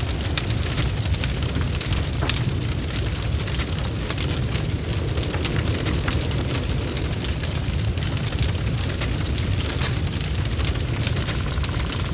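Bonfire crackling: a steady low rumble of burning wood, with frequent sharp crackles and pops.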